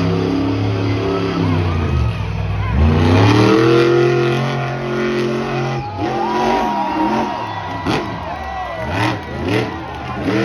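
Monster truck engine revving hard, its pitch climbing and dropping again and again, with a few sharp bangs in the last few seconds.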